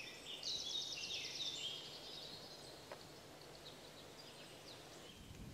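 Faint birdsong: a quick high trill and scattered chirps, busiest in the first two seconds and then thinning out over a quiet outdoor background.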